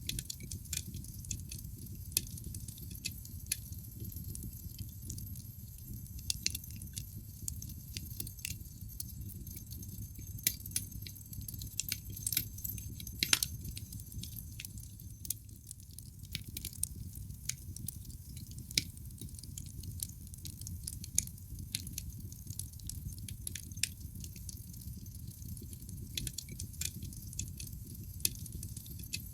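Wood fire burning in a fireplace: irregular sharp crackles and pops over a steady low rumble, with one louder pop about 13 seconds in.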